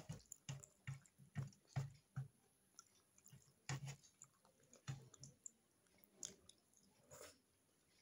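A person chewing rice and kadhi pakoda with short, wet mouth clicks, close to the microphone. The clicks come about two a second in the first two seconds, then more irregularly.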